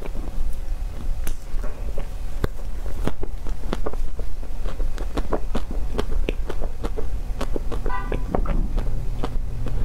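Close-miked chewing of a chocolate-coated ice cream bar with nuts: irregular crunchy clicks and crackles as the chocolate shell and nuts break between the teeth. A steady low hum runs underneath, and a short pitched sound comes about eight seconds in.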